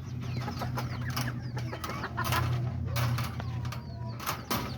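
Chickens clucking with short sharp calls and high little chirps, a few louder clucks near the middle and near the end, over a low steady hum.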